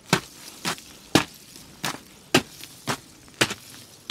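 Footsteps crunching through an ice crust on frozen ground, about two sharp crunches a second as the ice breaks underfoot.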